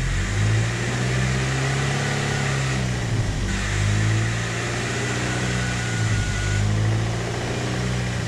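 Fiat Punto engine running, its pitch rising and falling gently about three times, with a steady hiss over it.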